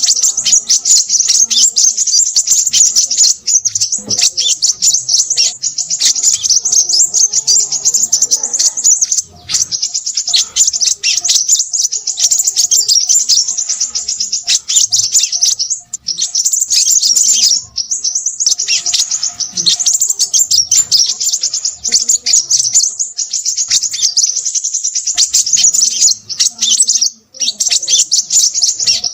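Crimson sunbird singing a rapid, almost continuous stream of high, busy twittering chirps, broken by a few short pauses.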